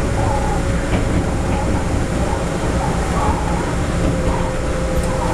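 Steady running noise heard inside a TEMU1000 Taroko Express electric tilting train at speed: a continuous rumble of wheels on rail, with a steady hum under it.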